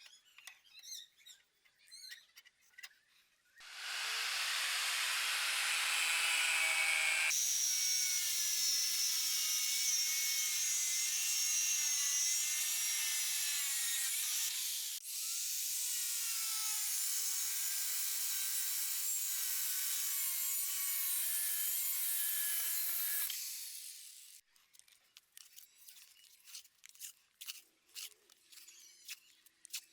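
A power tool running under load for about twenty seconds, with a wavering whine over a rough grinding noise and a brief dip about halfway through. Light tapping and scraping come before and after it.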